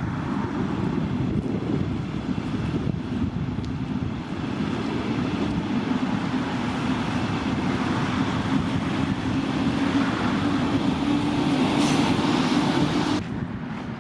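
Regional express train passing on the tracks below, a steady rumble with a droning hum that grows louder, then drops off abruptly near the end.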